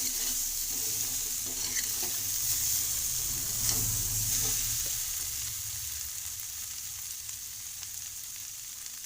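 Spiced potatoes sizzling in oil in a pan, with the scrape of stirring in the first half.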